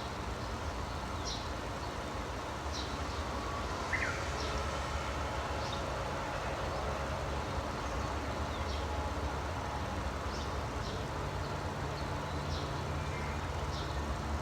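Small birds giving short, high chirps that repeat every second or so, with one lower falling call about four seconds in, over a steady low rumble.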